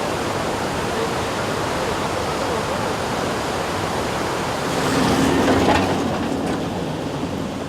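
Steady rushing noise, with a vehicle engine hum rising and growing louder about five seconds in as a vehicle crosses the rough, broken road.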